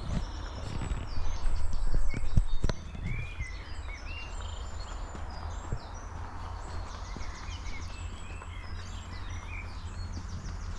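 Small forest birds chirping and calling over and over, with a short fast trill about seven seconds in. Under them runs a steady low rumble, with a few thumps and a louder stretch of noise in the first three seconds.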